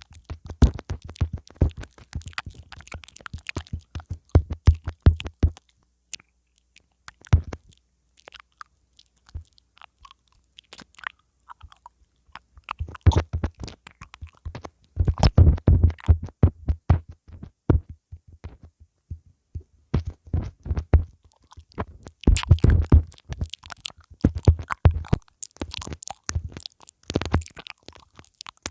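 Mouth sounds right on a pin microphone: nibbling, wet clicks and crackly smacks in dense clusters with low thumps of lips on the mic. They thin out to a few isolated clicks for several seconds in the middle.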